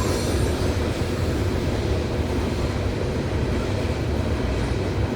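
A loaded coal train rolling by: a steady low rumble without distinct wheel clicks.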